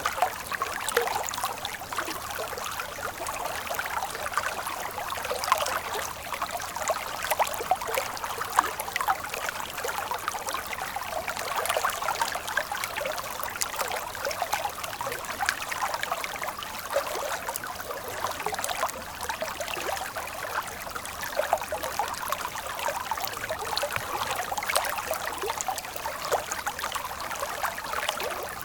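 Water in a stream flowing and trickling steadily, made of many small splashes and gurgles with little deep rumble.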